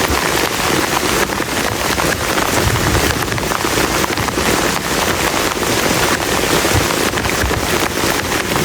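Heavy rain falling hard on a plastic tarp shelter: a dense, steady patter of countless drops.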